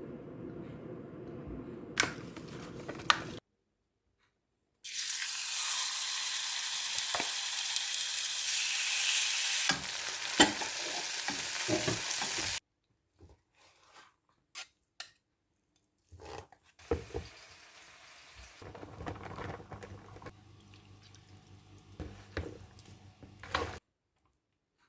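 Food sizzling in a hot frying pan, a loud steady hiss for about eight seconds in the middle, with utensil clicks and scrapes. Shorter stretches of kitchen handling and stirring noise come before and after it, broken by brief silent gaps.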